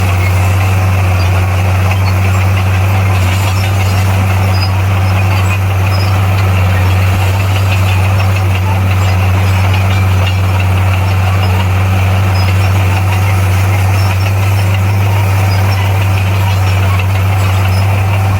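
Bulldozer's diesel engine running steadily at a constant speed, with a loud, even low hum.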